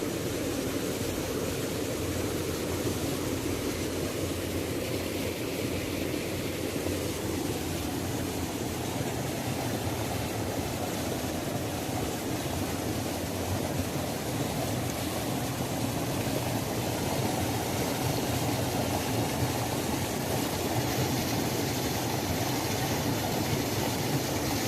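Waterfall: water pouring with a steady, dense rush.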